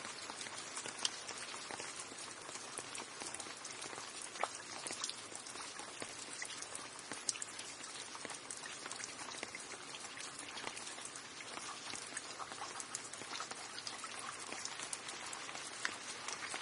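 Steady rain falling, a dense hiss with many close drop impacts and a few louder single drops hitting a surface.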